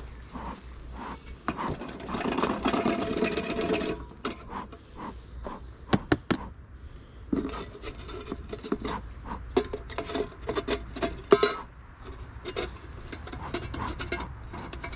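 Hands handling and rummaging through equipment: scraping and rubbing, with a few sharp clicks and knocks.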